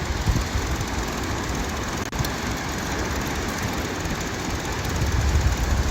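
Wind buffeting the microphone, a fluttering low rumble over a steady hiss of beach noise.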